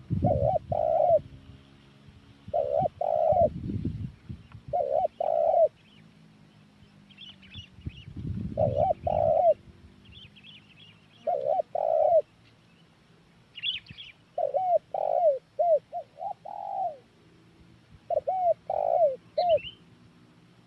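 Spotted dove (tekukur) cooing as a lure call: short phrases of two to four coos repeated every two to three seconds, with the last phrases running longer. Faint chirps of small birds and a few low rumbles sit underneath.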